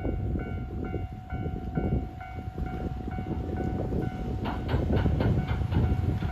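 Railway level-crossing alarm ringing, about three dings a second, over the rumble of an approaching train that grows louder. From about two-thirds of the way in, the train's wheels add a quick clatter over the rail joints.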